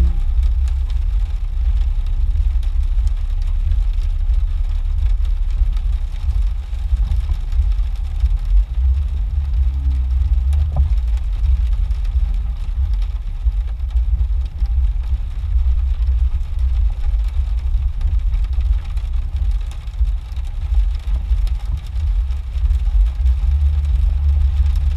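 Jeep engine running at low revs while crawling a muddy trail, a steady low rumble. An engine tone swells for a few seconds about ten seconds in and again near the end.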